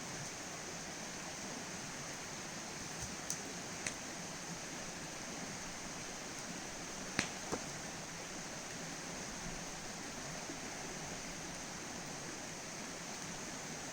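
Steady rushing outdoor background noise with a thin high hiss over it, broken by a few sharp clicks or pops at about three to four seconds in and again about seven seconds in.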